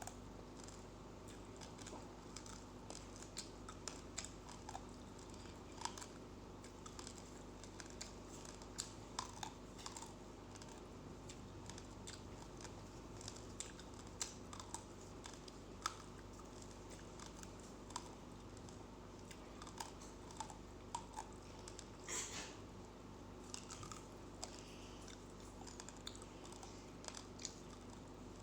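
Uncooked rice grains being crunched between the teeth: many faint, irregular sharp cracks, with a slightly longer crackle about two-thirds of the way through.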